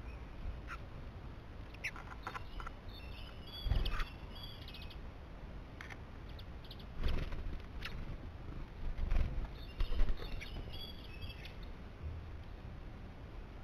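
Songbirds chirping, with two bursts of quick repeated twittering notes. Several dull low thumps are louder than the calls.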